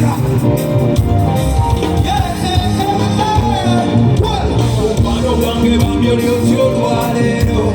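Live band music with singing: steady bass and drums under a wavering lead vocal line.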